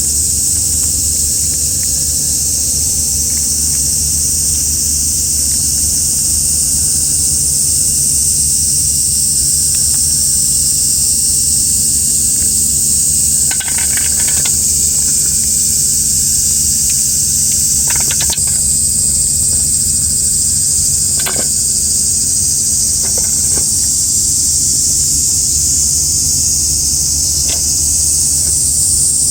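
Steady high-pitched insect chorus over a low rumble, with a few short calls in the second half.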